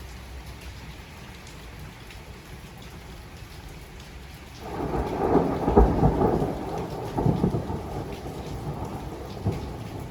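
Steady rain falling, then about halfway through a roll of thunder breaks in and rumbles for several seconds, with a second swell before it fades away.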